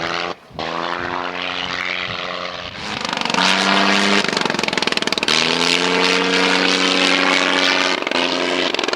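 Sopwith Camel's original rotary engine running with its propeller, a steady droning note that shifts slightly in pitch several times and grows louder about three seconds in.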